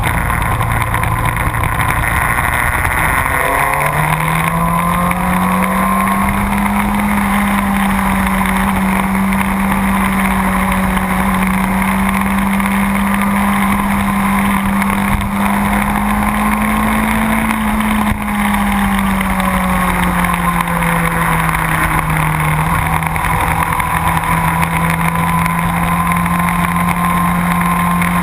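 A sport motorcycle's engine running hard on a race track, with a constant rush of wind noise. The engine note climbs about four seconds in, holds steady at high revs, then eases off a little past halfway and settles.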